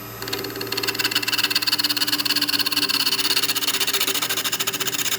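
Wood lathe running at about 1000 RPM with a cutting gouge pressed into the spinning wood, making a loud, rapid, even chatter of knocks over the lathe motor's steady hum; the chatter starts a moment in. The gouge is chattering on the wood instead of cutting cleanly, and the turner cannot get a smooth cut: the piece comes out rough and splintery.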